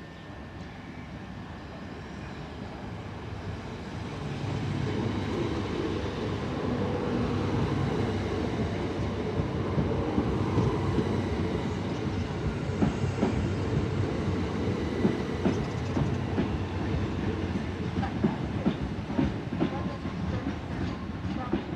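Electric multiple unit passenger train running on the line, its rumble growing louder about four seconds in and holding steady, with wheels clacking over rail joints more and more often in the second half.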